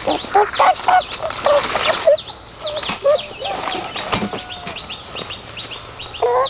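Small birds chirping, ending in a quick run of short falling chirps, about five a second. Hens cluck in the first couple of seconds, with a few light knocks.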